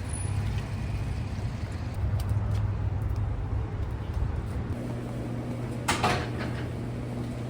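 Steady low vehicle hum with a short clatter about six seconds in.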